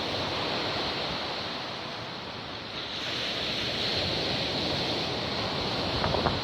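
Stormy sea surf breaking and washing on the shore, with strong wind on the microphone; the roar eases and then swells again about three seconds in as another wave comes in.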